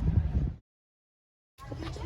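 Low rumbling noise with wind buffeting the microphone, cut off abruptly about half a second in. A second of dead silence follows at an edit, then faint background noise returns near the end.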